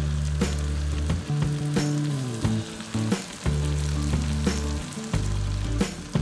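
Chicken pieces sizzling and crackling in hot oil and melting butter in a karahi. Low, sustained background music notes sound underneath and change pitch every second or two.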